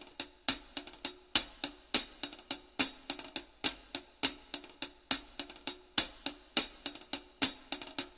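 Solo percussion intro to a rock song: sharp, separate drum hits in an uneven rhythm of roughly three strokes a second, with no other instruments playing.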